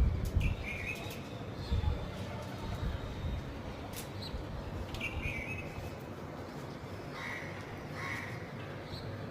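Small birds chirping in short, scattered high calls, with a low bump about two seconds in.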